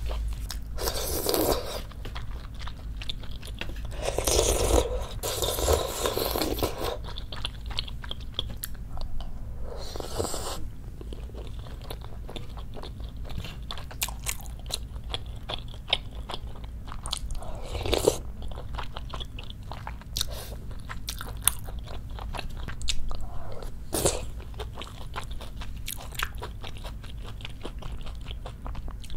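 Close-miked chewing and mouth sounds of eating spicy braised chicken and beef large-intestine stew with rice: many small wet clicks and bites, with a few louder spells in the first ten seconds.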